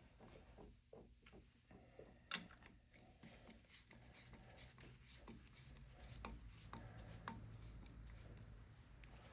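Faint scattered clicks and rubbing of small parts being handled at a workbench, with a sharper click about two seconds in and another near the end.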